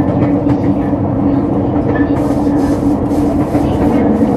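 Sotetsu 10000 series electric commuter train running at a steady speed, heard from inside the car by the gangway between cars. A constant rumble of wheels on rail carries a steady low hum, and light clicking and rattling starts about two seconds in.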